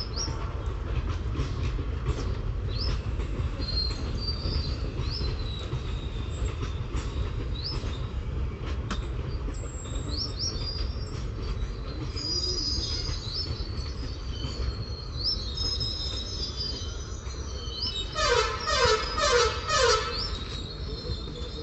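Passenger train of ICF coaches rolling out of a station at low speed: a steady low rumble of wheels on rail with short high-pitched wheel squeals. Near the end comes a quick run of loud, repeated high chirps.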